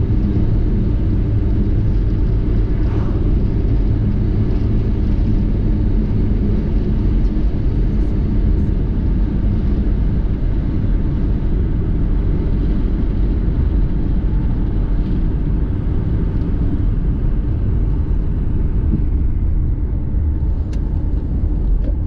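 Car being driven at steady speed: a constant low rumble of engine and road noise.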